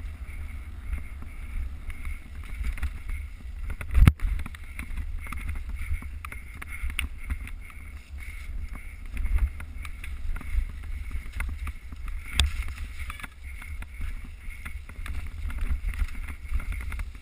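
Mountain bike ride heard through a GoPro: a steady low rumble of wind and trail on the microphone, with frequent small knocks and rattles from the bike and camera, and a hard jolt about four seconds in.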